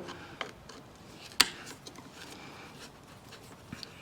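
Handling noises from the air filter cover of an old Craftsman tiller's engine being worked off: a few light clicks and one sharp click about a second and a half in.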